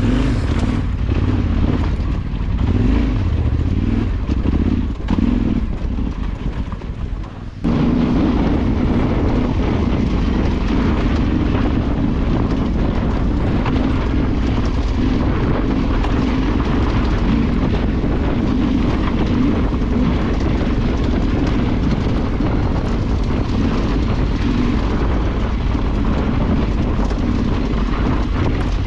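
Off-road motorcycle engine running under way, with wind noise on the microphone. It is uneven for the first seven seconds or so, then about seven and a half seconds in it jumps to a steady, louder drone that holds.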